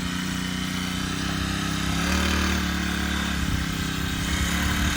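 Mini bike's small engine running steadily as the bike is ridden, getting a little louder about two seconds in.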